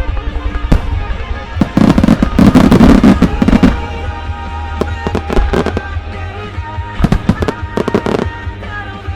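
Aerial firework shells bursting and crackling over a music soundtrack. The bursts come thick and loud in a run early in the first half, then in scattered groups later.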